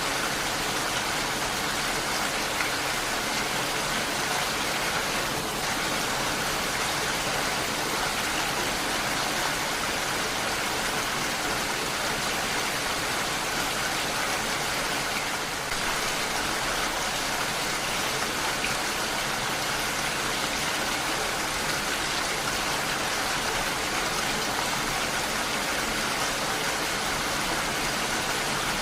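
Heavy rain falling steadily, an even hiss of rain with no single drops or pauses standing out.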